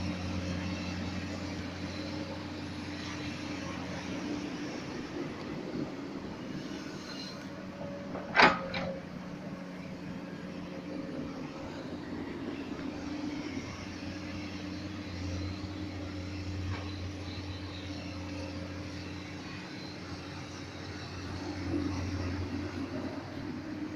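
Komatsu PC200 excavator's diesel engine running steadily while digging, rising and falling a little with the load, with one loud knock about eight seconds in.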